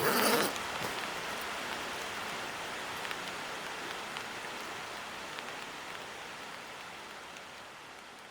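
Steady rain falling, with scattered drops tapping on a surface, slowly fading out. A brief louder rush comes in the first half second.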